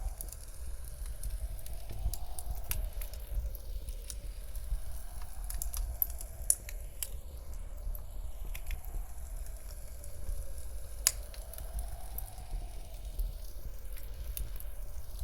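Wood fire crackling with scattered sharp pops, the loudest about six and a half and eleven seconds in, over a steady low blizzard-wind rumble. The mix swells and fades every few seconds.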